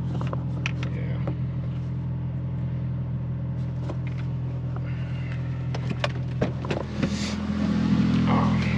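Honda Civic engine running steadily with a low hum, the engine note rising a little near the end, with a few light clicks over it.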